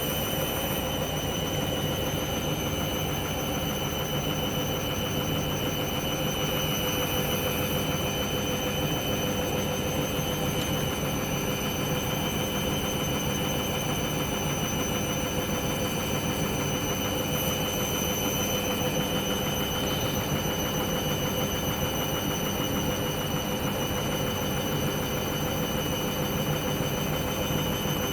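Hoover washing machine's drum motor whining steadily, with a low hum underneath, during the first spin of a cotton 90 wash. The machine is in suds lock, which keeps the spin held back at a steady speed instead of ramping up.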